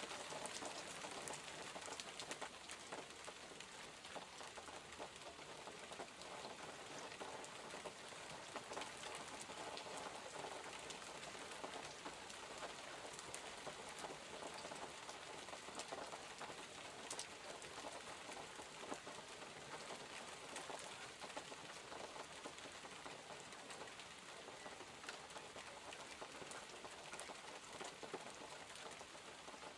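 Steady rain falling, with many small drops pattering and ticking on surfaces throughout.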